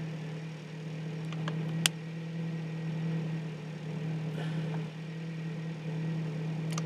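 Ford Focus Mk1 RS engine idling steadily at a raised idle of about 1200 rpm while warming up from a frosty cold start, with a couple of sharp clicks.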